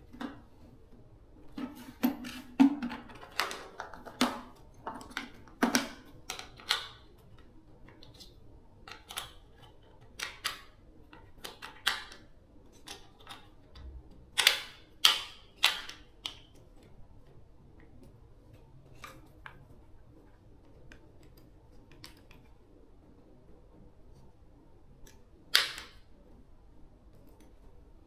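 Irregular sharp clicks and knocks of tools and parts being handled, coming in clusters in the first half. A quieter stretch follows, then one loud knock shortly before the end.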